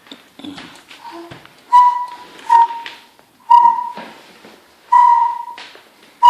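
A child blowing a toy whistle in short toots, about five in a row on one steady pitch roughly a second apart, with light taps of toy handling in between.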